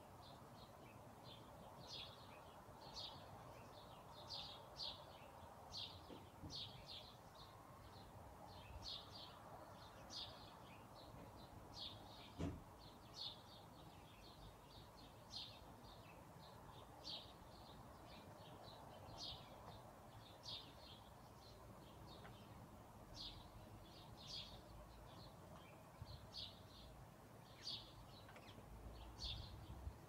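Songbirds chirping: short, high chirps, often in pairs, about one a second, over a faint steady background hiss. A single sharp tick about twelve seconds in is the loudest moment.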